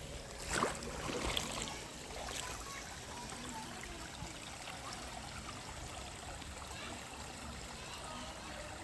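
River water running steadily, with a couple of brief splashes about half a second and a second and a half in.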